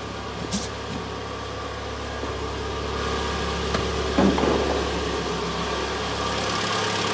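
Mitsubishi Outlander's 2.0-litre 4B11 four-cylinder petrol engine idling steadily after a full rebuild, heard from outside the car. It runs evenly with no knock, and gets gradually louder.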